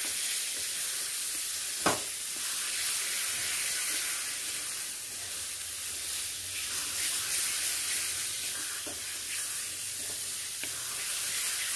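Grated carrot halwa sizzling in ghee in a metal kadhai over the gas flame as a spatula stirs and scrapes it round the pan, at the stage where the halwa has begun to pull away from the sides. A sharp knock of the spatula on the pan comes about two seconds in.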